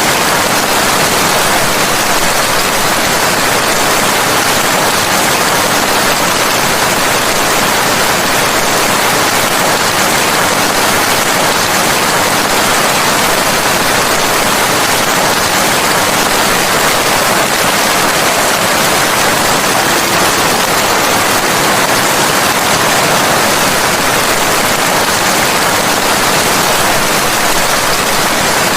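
Steady heavy rain falling, a dense even hiss with no single drops, thunder or other sounds standing out.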